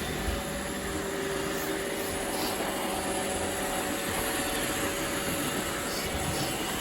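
Robot vacuum cleaners running steadily, a continuous whir of their motors and brushes with a faint steady hum.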